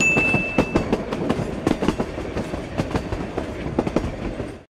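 Passenger train running on rails, its wheels clattering irregularly over a steady rumble, with a brief high steady tone near the start.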